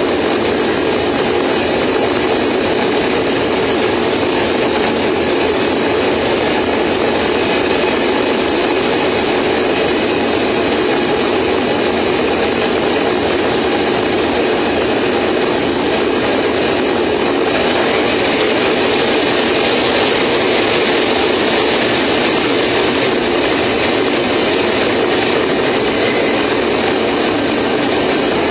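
Steady, loud roar of an airliner's jet engines and rushing air, heard from a camera on the landing gear. It grows a little brighter and hissier about two-thirds of the way through.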